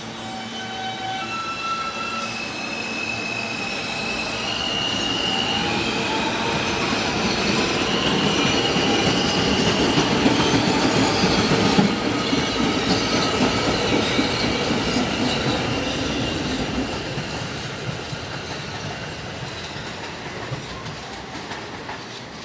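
New York City Subway R160 train passing, its propulsion motors whining in tones that step up in pitch over the first several seconds, over wheel rumble and clatter on the rails. It grows louder to a peak about halfway through, then fades.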